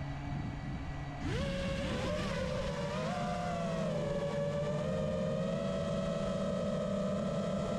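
FPV racing-drone motors and propellers: a low hum, then about a second in a quick rising whine as the throttle comes up, held at a high steady pitch that wavers slightly with throttle.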